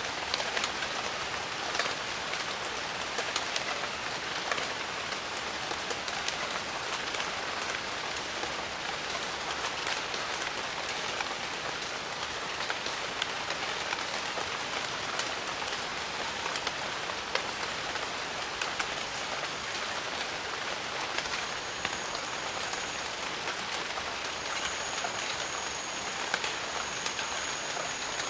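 Steady rain falling, with many separate drops ticking close by through an even hiss. A thin steady high whine comes in about three quarters of the way through and holds, briefly breaking off once.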